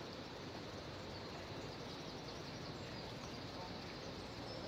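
Steady outdoor background hiss with a few faint, high bird chirps.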